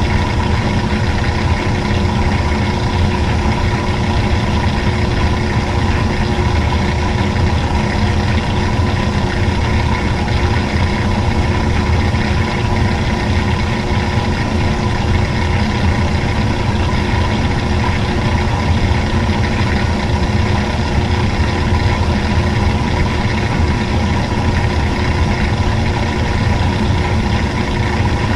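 Old-school washing machine running with a steady, unchanging motor hum.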